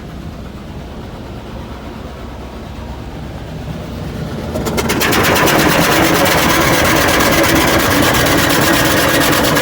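Touchless car wash machinery running with a low hum, then about halfway through its high-pressure water jets hit the truck, heard from inside the cab as a loud, rapidly pulsing hiss of spray.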